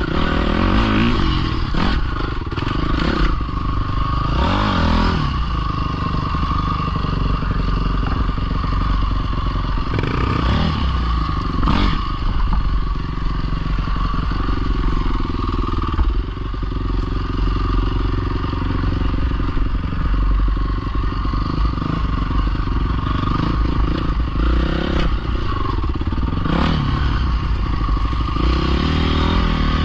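Pit bike engine running continuously, its revs rising and falling several times.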